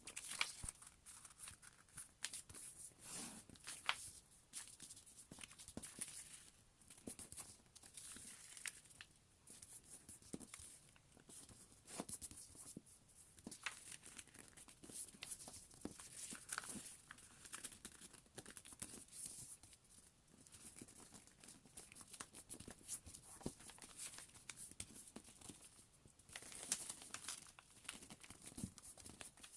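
A sheet of paper being folded by hand: quiet, irregular rustling and crinkling, with frequent sharp little crackles as folds are made and pressed.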